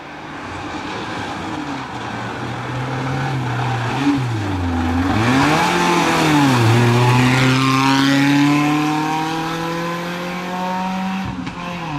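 Suzuki Ignis rally car's engine rising and falling in pitch as it brakes and weaves through a tyre chicane. It then climbs steadily in pitch as it accelerates away, with a brief dip near the end as it changes gear. It is loudest in the middle, as the car passes closest.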